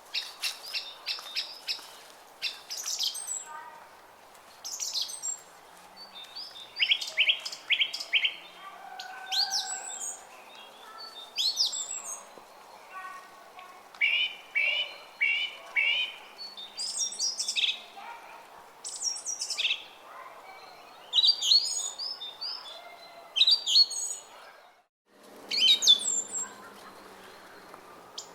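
Small songbirds singing, with short phrases of quick, high chirps repeated every second or two, over a faint hiss of running water from a brook. The sound cuts out completely for a moment about 25 seconds in, then resumes.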